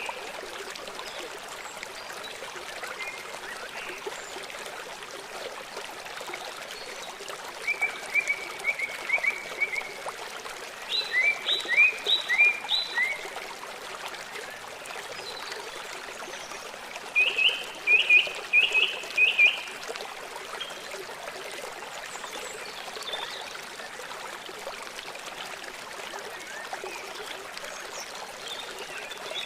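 Small songbird calling in three quick runs of short repeated chirps, each run lasting about two seconds, over a steady background hiss.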